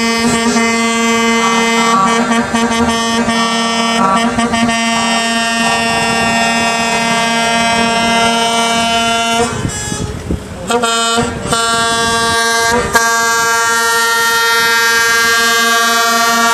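Truck air horn blaring in one long, steady held blast, cut off briefly about ten seconds in and then sounding again.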